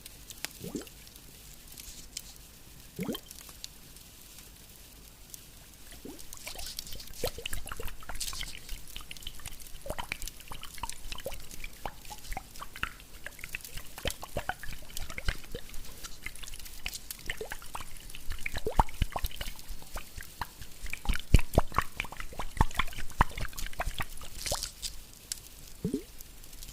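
Facial ice globes being handled: a run of small taps and clicks, busiest in the middle, with a few short rising watery plops near the start and end.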